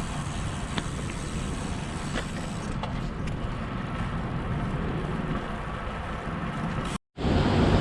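Steady wind and road noise from riding a road bike on wet pavement, with a few faint clicks. It cuts off abruptly about seven seconds in, and a louder steady rush follows.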